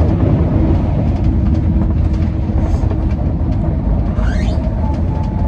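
Steady running rumble of a moving passenger train, heard from inside the coach.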